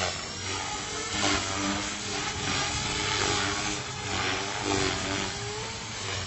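Electric flybarless RC helicopter in flight, its rotor and motor noise rising and falling in pitch as it manoeuvres.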